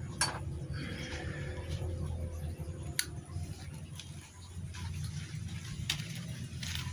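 Three sharp clicks about three seconds apart, with short bouts of rustling, over a steady low hum: small metal parts and tools being handled during motorcycle engine work.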